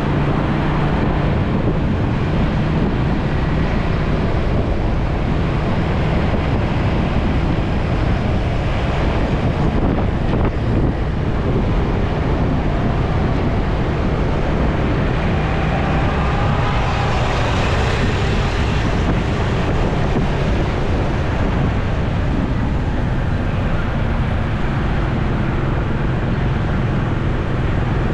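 Motorcycle engine running steadily while riding in traffic, with wind rushing over the helmet or body-mounted microphone. A brighter hiss swells for a few seconds a little past the middle.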